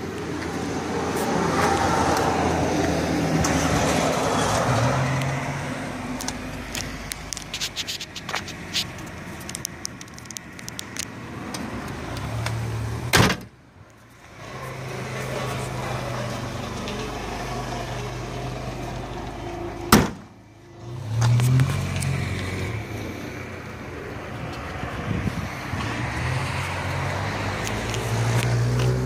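Low hum of a motor vehicle engine running, coming and going, with scattered light clicks. Two sharp clicks, about halfway through and a few seconds later, are each followed by a moment of near silence.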